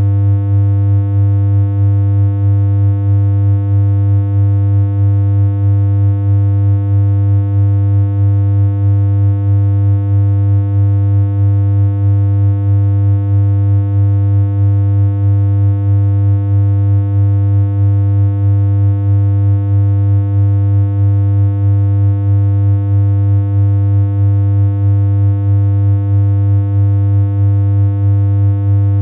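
Continuous low synthesized hum: one steady electronic tone with a buzzy edge that never changes pitch, with a slight regular wobble in loudness.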